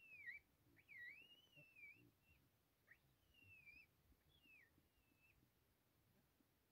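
A bird singing faintly: a run of short whistled notes that slide up and down, the longest one dipping and then rising, stopping about five seconds in.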